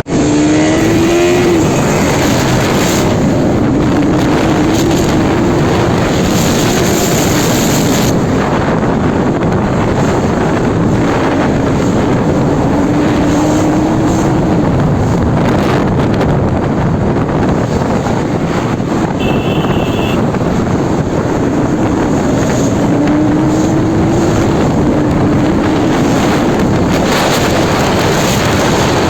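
Bajaj Pulsar RS 200 motorcycle's single-cylinder engine running on the move, its pitch rising slowly a few times as it pulls, under loud wind noise on the microphone.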